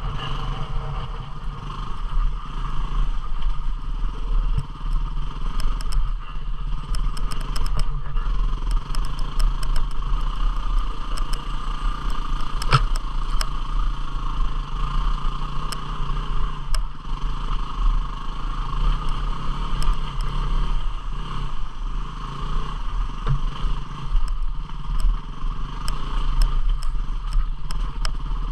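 250 cc single-cylinder dual-sport trail motorcycle engine running steadily while riding a rough trail, with scattered sharp clicks and clatter over it.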